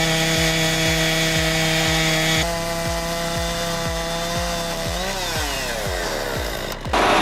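Chainsaw running steadily at high revs. About five seconds in its pitch wavers and the revs fall away, and near the end a louder rough rasping noise takes over. A low beat thuds steadily underneath.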